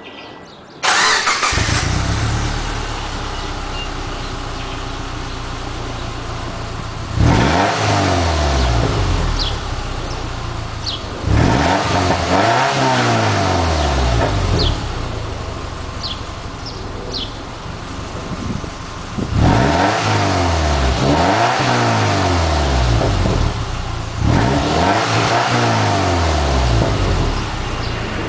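Subaru Impreza 2.5RS flat-four boxer engine with an STi exhaust, starting about a second in and settling to idle. It is then revved in four spells of several rising and falling blips, dropping back to idle between them.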